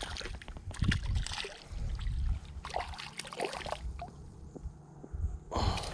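Irregular knocks and clicks on a small skiff, with water sloshing and a low wind rumble; no outboard running.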